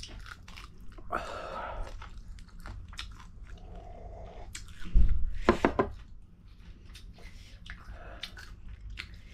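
Close-up chewing of food with a run of short wet mouth clicks. There is a louder crunch or knock about five seconds in.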